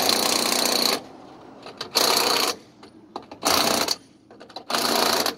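Impact wrench running boat-trailer lug nuts down in a star pattern, in short bursts: one burst carrying on through the first second, then three more of about half a second each, with light clicks as the socket moves between nuts.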